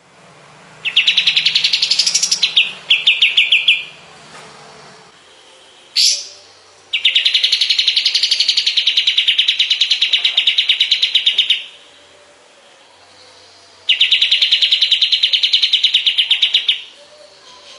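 Kapas tembak songbird singing loud, rapid trills of fast repeated notes in three bursts: a short broken one near the start, a long one of about four and a half seconds through the middle, and another of about three seconds near the end.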